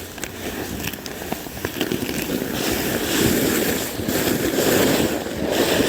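A sled sliding down an icy, snow-covered slope: a rough scraping hiss that grows louder about two seconds in, with wind buffeting the microphone.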